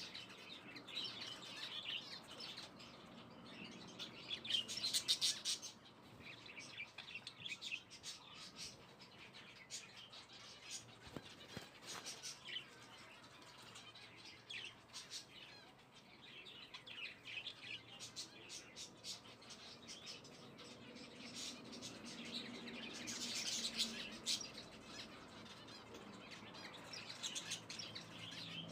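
Small birds chirping, in repeated quick bursts of short high chirps that swell louder around a quarter of the way in and again near the end.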